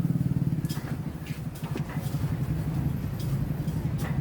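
An engine idling with a fast, even low pulse, with a few light clicks and knocks over it.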